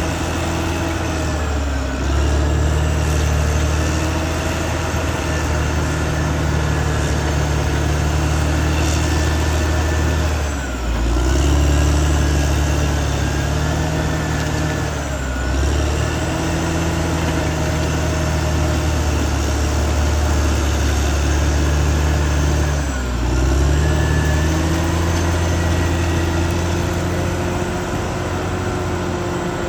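Caterpillar D6R XL bulldozer's diesel engine working steadily under load, with a high whine riding over it; the engine note dips and recovers four times as the load changes.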